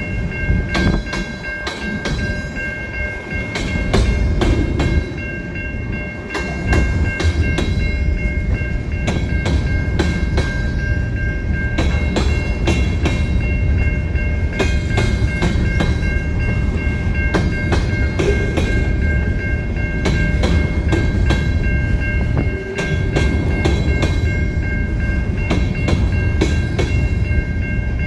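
Freight train of covered hopper cars rolling past close by: a steady heavy rumble from the wheels, many quick clicks as the wheels cross rail joints, and a steady high whine underneath.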